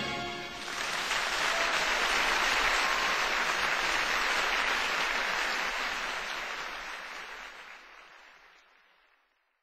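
Theatre audience applauding as the song's final orchestral chord ends, the clapping swelling about half a second in, holding steady, then fading away over the last few seconds.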